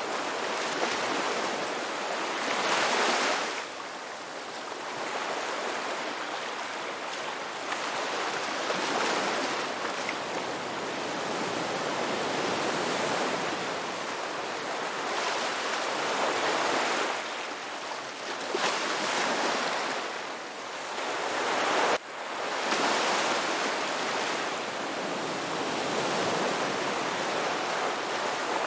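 Ocean waves breaking and washing ashore: a continuous wash with a louder surge every several seconds, and a sudden brief drop about three-quarters of the way through.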